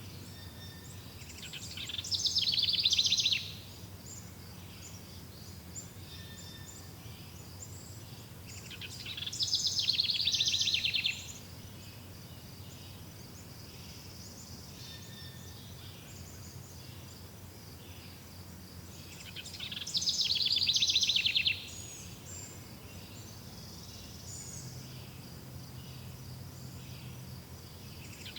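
A songbird repeating a loud, rapid trilled phrase of about two seconds, roughly every ten seconds, each phrase swelling as it goes. A steady high chirping chorus runs behind it.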